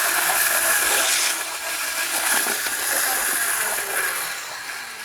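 Athearn model diesel locomotive running fast along the track, with its motor, flywheels and wheels on the rails making a steady whirring hiss. About four seconds in it starts fading away as the locomotive coasts down.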